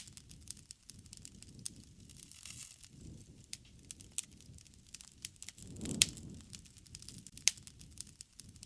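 Wood fire crackling: sharp, irregular pops and snaps over a low rumble of burning flames that swells about six seconds in.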